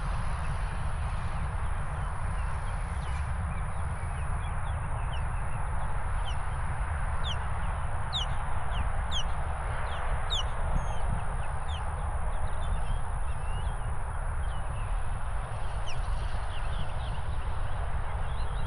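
Wind rumbling on the microphone over a steady rushing noise, with a flurry of short, high, falling bird chirps for several seconds in the middle.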